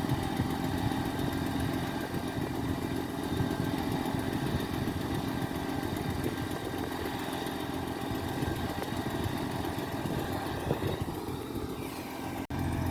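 A truck engine running steadily at idle, a low rumble with a few steady tones above it. The sound drops out for an instant near the end.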